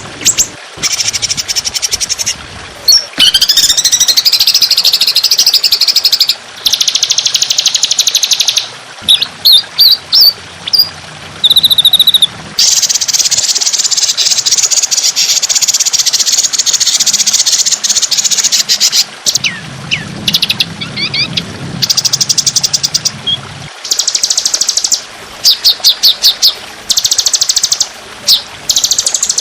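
Songbird song from a bird-training (masteran) recording: long, dense, high-pitched trills and rapid shot-like chattering phrases, one after another with brief pauses between them.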